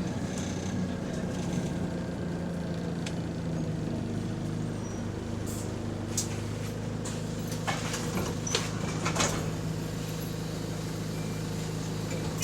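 Bus diesel engine running steadily, heard from inside the bus, with a few short sharp rattles or clicks about halfway through. The bus is in limp mode, so the gearbox gives no kickdown.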